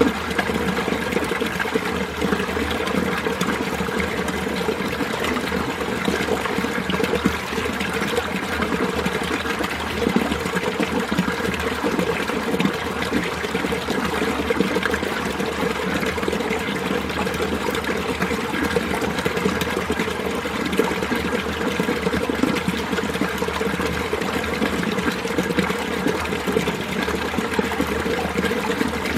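Winter mountain stream flowing steadily, its water babbling and splashing over rocks.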